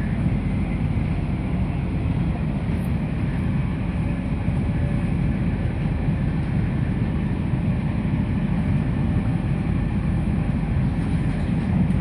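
Steady low rumble of an NS passenger train running at speed, heard from inside the carriage.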